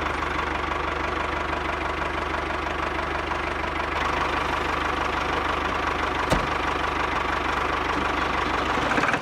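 Small electric motor of a homemade model machine running steadily with a fast, fine rattle, and a single click about six seconds in.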